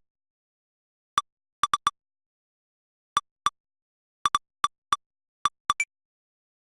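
About a dozen short, identical electronic clicks at irregular intervals, some in quick pairs and triplets, over dead silence. They are the synthetic tick sounds of a lightning detector's history playback, which mark detected strikes.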